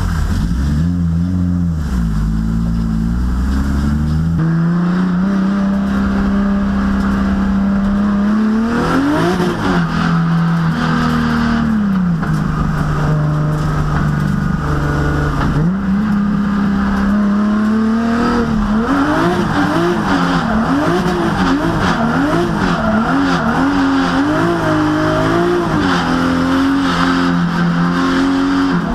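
High-powered drift car engine at high revs, holding steady pitches for a few seconds at a time, then from about two-thirds in rising and falling rapidly over and over as the throttle is worked through a slide, with tyres squealing.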